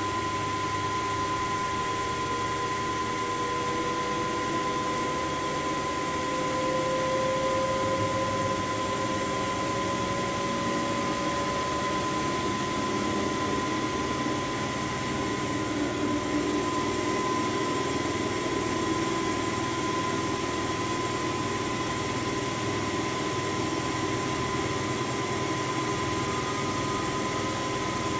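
Washing machine running: a steady mechanical hum with a constant high whine, and a fainter tone that slowly climbs in pitch over the first dozen seconds.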